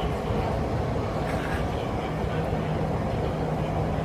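Inside a Bangkok MRT Purple Line electric metro carriage under way: steady running rumble with a constant low hum.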